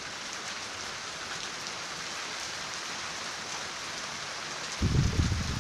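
Steady rain falling, an even hiss with faint ticks of individual drops. Near the end a loud low rumble starts over it.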